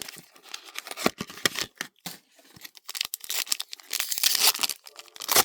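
A trading-card booster pack's foil wrapper being torn open and crinkled in the hands: a run of sharp crackles, with the loudest tearing about four seconds in.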